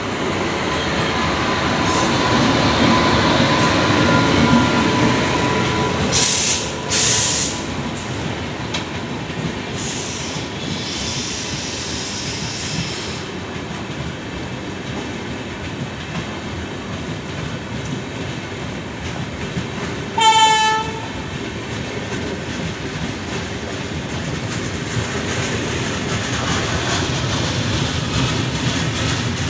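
A train running along the track at a railway station, its wheels clattering steadily, with a thin steady whine in the first few seconds. A single short horn blast sounds about twenty seconds in.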